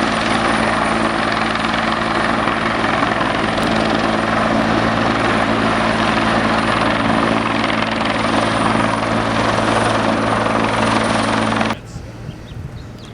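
Helicopter running close by: a loud, steady rotor and engine noise with a low hum and a thin high whine. It cuts off abruptly near the end, leaving a much quieter background.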